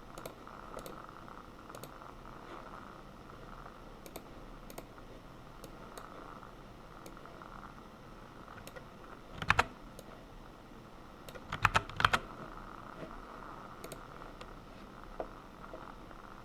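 Computer keyboard keys tapped in a few short spurts: scattered light key clicks, a louder pair about nine and a half seconds in and a quick run of louder keystrokes around twelve seconds, over a steady faint hum.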